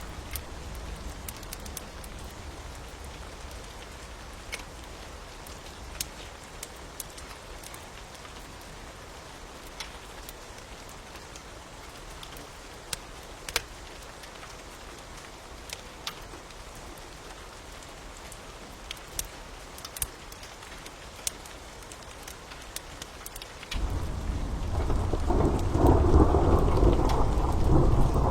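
Steady rain falling, with scattered sharp crackles and pops from a crackling fire. About 24 s in, a loud rumble of thunder starts suddenly and keeps rolling.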